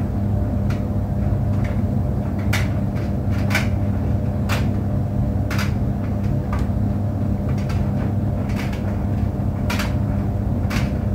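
Tumble dryer running with a steady low hum, and a light knock about once a second.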